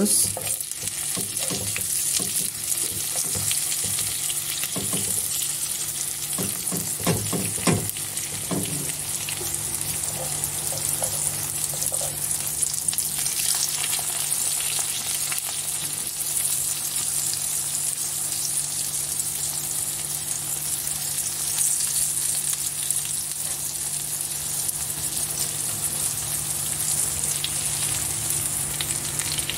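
Egg- and corn-flour-coated eggplants sizzling steadily in hot oil in a frying pan. A few clatters of a metal spatula against the pan sound in the first nine seconds as the pieces are turned.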